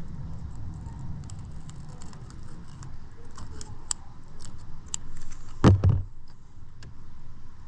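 Fishing gear handled on a boat: small scattered clicks and rattles, with one loud thump about six seconds in.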